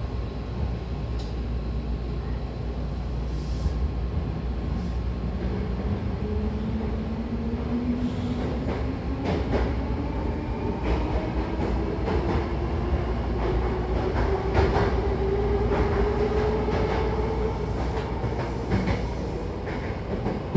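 Hankyu electric train pulling away from a station, heard from inside the car: a motor whine climbs steadily in pitch as the train gathers speed, then levels off near the end. It runs over a steady rumble of wheels on rail, with scattered clicks of the wheels over rail joints once the train is moving.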